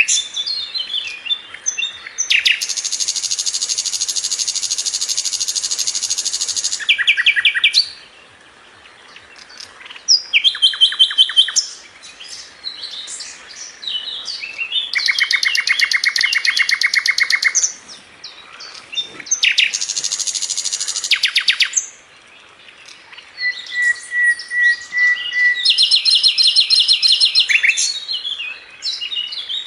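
A sikatan londo flycatcher singing continuously. Long, very fast trills of two to four seconds, four of them, alternate with bursts of short varied chirps and whistles. The song stays high-pitched throughout.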